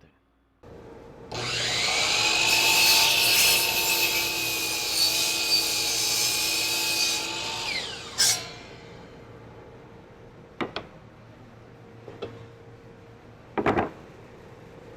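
Miter saw spinning up and cutting through wood for about six seconds, then the blade winding down with a falling whine. Under it a dust-collection vacuum runs steadily. A few light knocks follow near the end.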